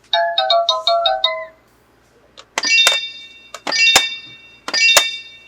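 Electronic toy sound chip playing a quick run of short beeping notes, then three bright ringing chimes about a second apart, each starting with a click.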